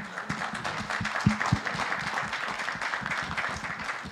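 Congregation applauding: many people clapping at once in a steady, dense round of applause.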